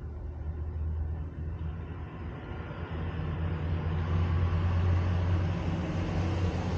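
A steady low engine hum with noise that builds to a peak about five seconds in and then eases off, like a motor vehicle passing.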